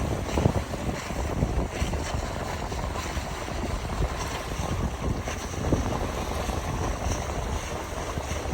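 Wind buffeting the microphone over a steady rush of wind and water aboard an O'Day 240 sailboat under sail. The gusts rumble hardest in the first second, then settle to a steadier rush.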